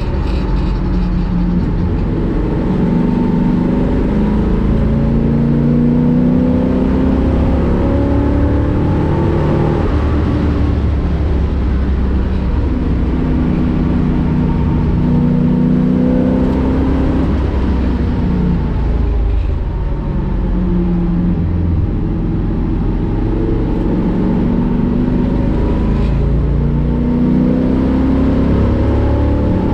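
1965 Ford Mustang race car's V8 engine at racing speed on track, repeatedly rising in pitch as it accelerates up through the revs, then dropping back as it lifts off or changes gear.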